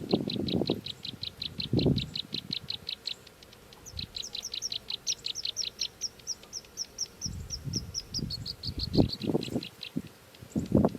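Nestling birds begging with rapid, evenly repeated high chirps, about eight a second. The chirps give way to a slower series of short downslurred notes that drop a little in pitch near the end. Low rustling and bumps of movement at the nest come at the start and again in the last few seconds.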